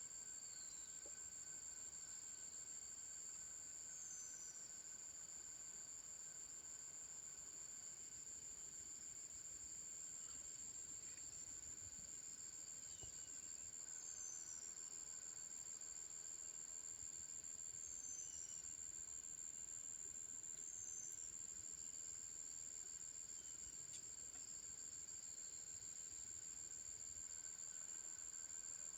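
Small forest birds giving short, high, falling chirps every few seconds over a steady high-pitched whine, with the faint rush of a stream underneath.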